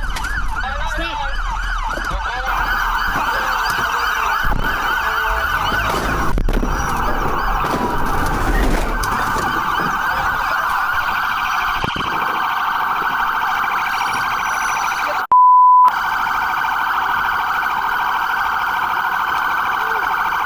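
Police car siren sounding continuously, its pitch cycling quickly up and down. About fifteen seconds in, a one-second steady beep cuts out everything else: a censor bleep laid over the audio.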